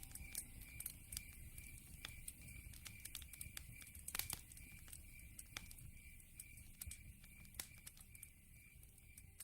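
Open wood fire crackling faintly, with scattered sharp pops and a dense cluster of them about four seconds in, over a steady, evenly pulsing high chirp from a night insect.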